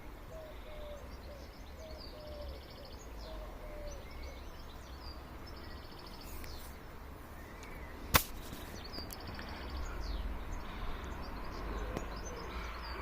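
Birds calling and chirping: short repeated high chirps and a run of lower, falling notes. Under them is a low steady rumble of outdoor background noise, with one sharp click about two-thirds of the way through.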